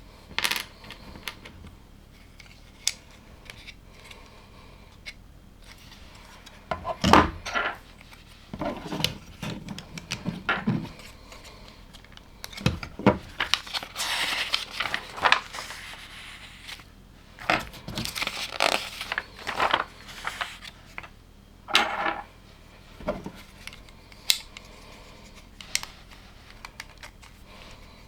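Plastic LEGO pieces being handled and snapped together: irregular sharp clicks and short rattles as bricks are picked from the pile and pressed into place.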